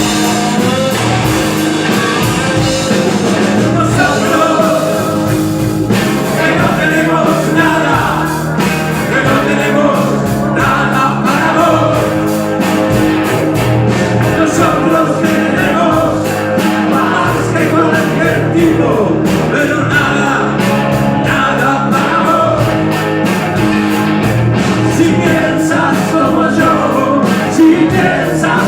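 Rock band playing with singing, guitar, bass and drums, in a steady, loud full-band passage.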